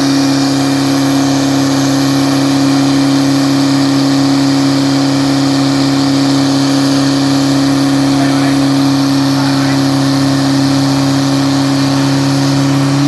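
Diesel pickup engine held at a steady raised speed, one unchanging loud drone, easing down slightly in pitch at the very end.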